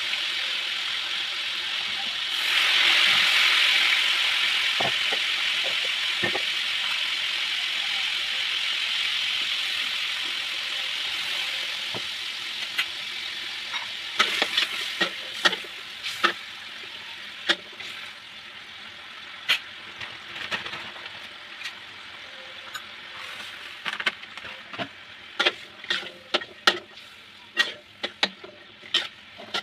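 Pork ribs sizzling in oil in a wok, a steady hiss that swells a few seconds in and then slowly fades. In the second half a metal spatula knocks and scrapes against the wok in a run of sharp clinks as the ribs are turned.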